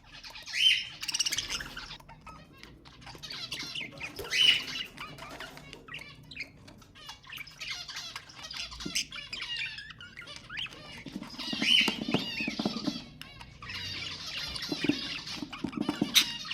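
Budgerigars chattering and warbling with sharp squawks and quick clicking calls, coming in repeated bursts.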